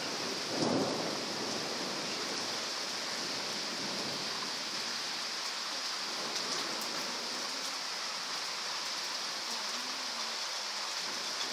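Heavy rain falling steadily in a storm, a continuous hiss. About a second in there is a brief, duller sound.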